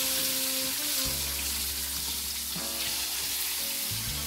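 Whole hard-boiled eggs sizzling as they fry in hot oil with curry leaves and turmeric in a wok, while a wooden spatula moves them around. The sizzle is a steady hiss.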